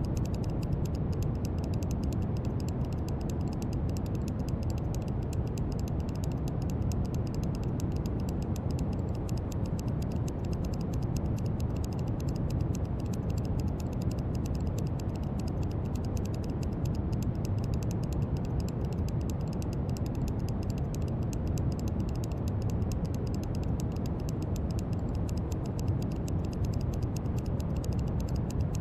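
Steady brown noise: an even, deep rushing hiss with most of its weight in the low end, carrying a faint fast crackle in the highs.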